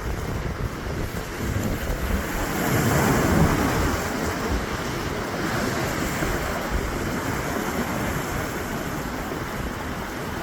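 Storm-driven surf washing and breaking, with wind buffeting the microphone; the wash swells louder about three seconds in.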